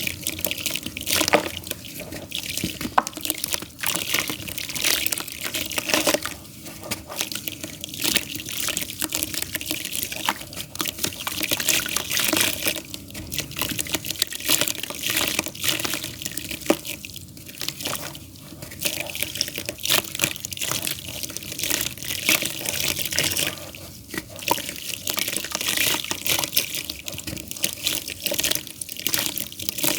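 Damp clay dirt being crumbled: a continuous, irregular wet crackling and crunching.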